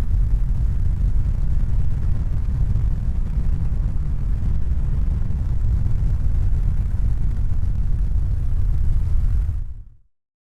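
Steady, deep rumbling noise with no distinct tones, fading out near the end.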